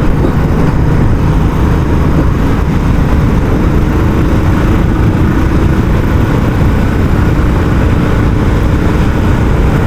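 Royal Enfield Classic 350's single-cylinder engine running steadily under way through its stock exhaust: the bike's thump.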